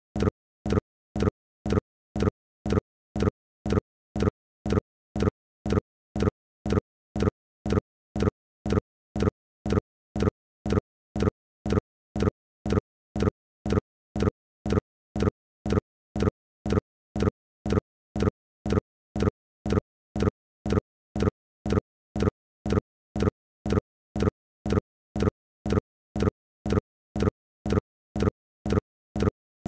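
A short, identical pitched pulse repeating evenly about twice a second, each one cut off sharply.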